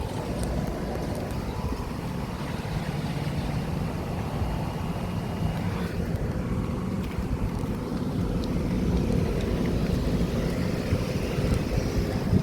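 Outdoor air-conditioner condensing units running: a steady rush of condenser fans over a low compressor hum.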